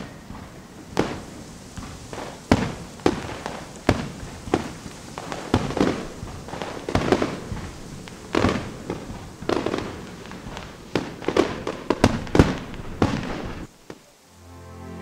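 Fireworks going off: a couple of dozen sharp bangs at irregular intervals, each with a short trailing rumble. The bangs stop near the end.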